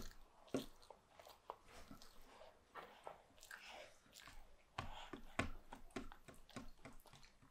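A toddler chewing a mouthful of crumpet, close to the microphone: faint, irregular wet mouth clicks and smacks.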